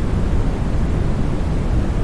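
Steady sleep-aid noise for soothing a baby: a constant, even hiss weighted heavily toward the deep end, closer to brown noise than to flat white noise.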